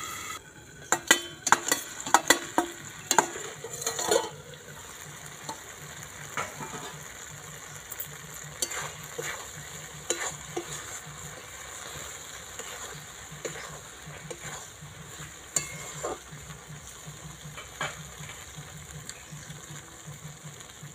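Ivy gourd curry sizzling in a kadai while a metal spatula stirs and scrapes it, with a run of loud metal clanks in the first few seconds and lighter clinks after.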